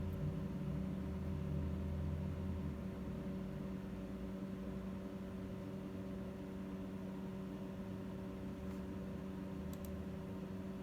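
A steady machine hum, with a low rumble during the first three seconds and a few faint clicks near the end.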